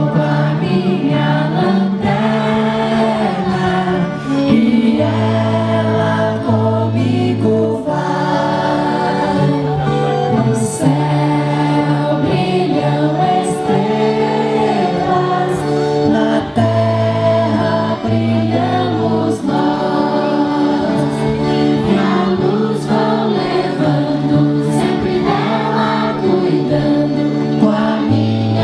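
A group of voices singing a song together to music, with a low bass line that moves from note to note.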